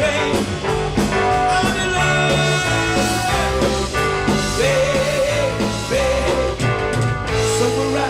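A rock band playing a passage of the song without sung words, a bass line stepping between held notes under a higher melody line.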